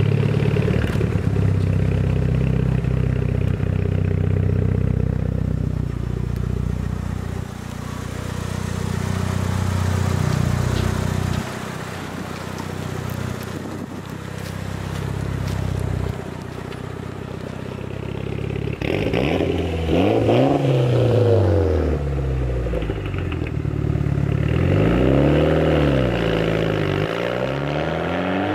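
Mitsubishi Lancer Evolution VIII's turbocharged 4G63 inline-four running through a turbo-back Tanabe Concept G racing exhaust: a steady deep note for the first part, then revved up and back down several times in the second half.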